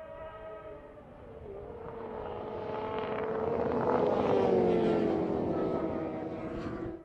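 Racing sportbike engines at high revs passing by: the engine note swells to its loudest about four seconds in, then drops in pitch as the bikes go past, cutting off abruptly at the end.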